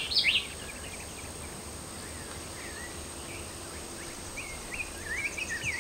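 Small birds chirping against a steady outdoor background hiss: a few quick chirps as it begins, then a run of short rising and falling chirps over the last second and a half.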